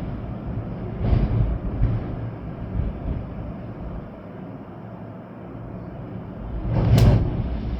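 Storm wind gusting with rain, the gusts buffeting the microphone as a low rumble. It eases into a lull midway, then a strong gust surges near the end.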